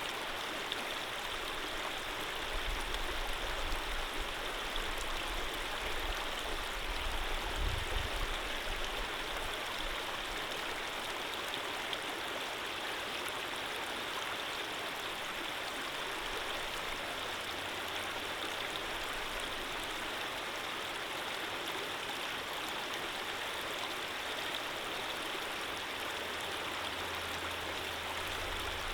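Steady rushing of running water in a gentle stream, with a low rumble for several seconds a few seconds in.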